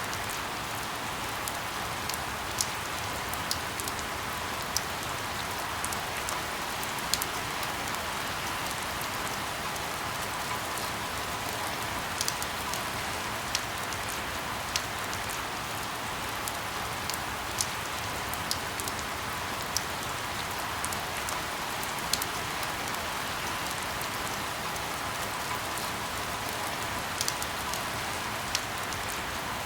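Steady rain falling, with the odd heavier drop ticking sharply on a surface every second or so.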